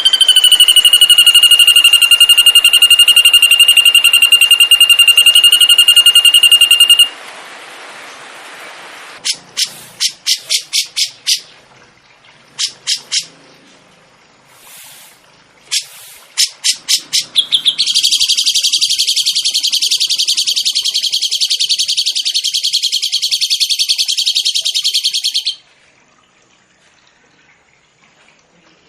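Songbird giving long, very rapid rolling trills: one held near a single pitch for about seven seconds, then runs of short sharp chirps, then a second long, fast trill lasting about seven seconds that cuts off suddenly.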